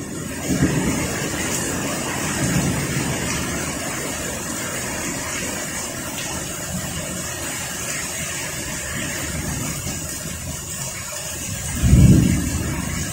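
Heavy rain pouring steadily in strong wind, with a loud low rumble near the end.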